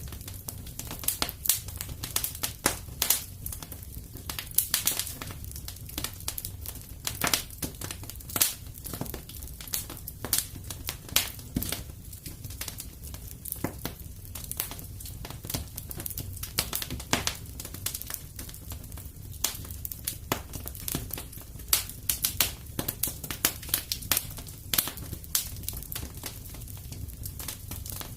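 Wood fire burning in a fireplace, crackling with irregular sharp snaps several times a second over a low steady rumble.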